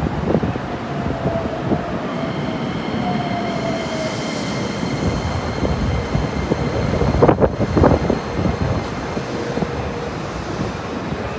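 Electric commuter train moving beside the platform: a steady rumble of wheels on rail, with a faint falling whine in the first few seconds and two sharp clacks about seven to eight seconds in.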